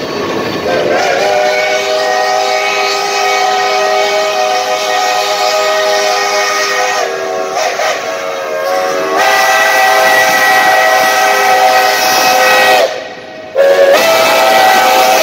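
Geared steam locomotive's chime whistle blowing a chord of several tones in long blasts. A long blast wavers and dips about seven seconds in, sounds again for about four seconds, stops briefly near the end, then starts once more.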